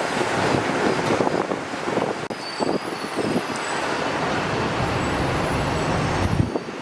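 Jet airliner engine noise: a steady rumble with a thin high whine, mixed with wind buffeting the microphone.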